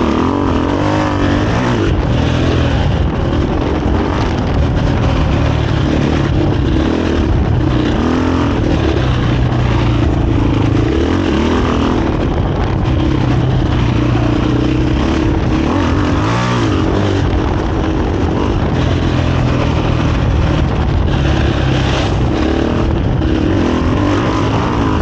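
2023 KTM 500 EXC-F's single-cylinder four-stroke engine running through a Graves aftermarket exhaust while the bike is ridden, its pitch rising and falling as the throttle is worked.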